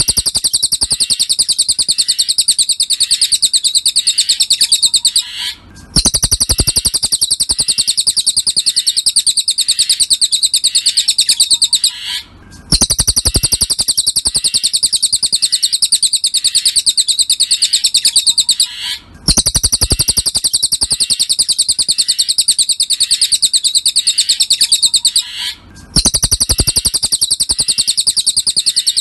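Cililin songbird singing a fast, even trill of high notes. It comes in stretches about six seconds long, with brief breaks between them, and repeats over and over as a looped training recording.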